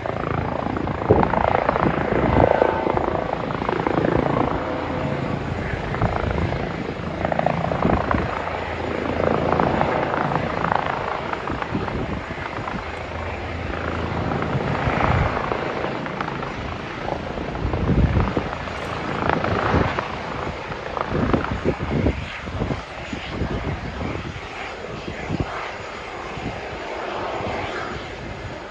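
Police helicopter's rotor and turbine engine running, a steady, uneven noise that swells and fades.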